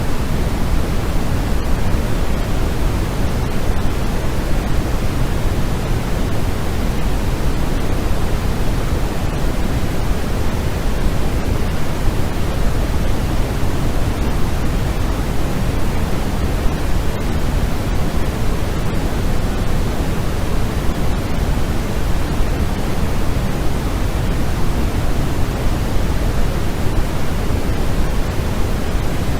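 Steady, even noise-machine hiss, heaviest in the low end and thinning toward the top, without any change or rhythm.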